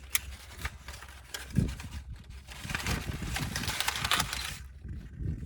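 Fire being lit: a few sharp clicks and a knock, then about two seconds of rustling, hissing noise that fades away.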